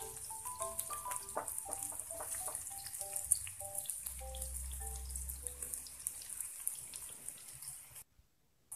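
Sliced shallots sizzling in hot oil in a frying pan: a steady hiss dotted with fine crackles and spatters. Background music with a simple melody plays over it and fades out about six seconds in, and the sound drops out briefly near the end.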